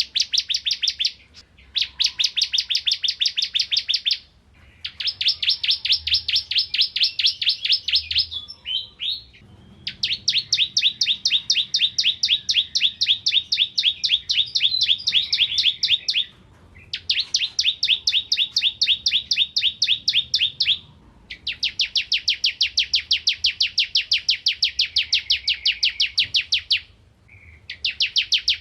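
Bar-winged prinia (ciblek kristal) singing in full voice: long bouts of fast, evenly repeated high chirps, each lasting several seconds, with short pauses between them.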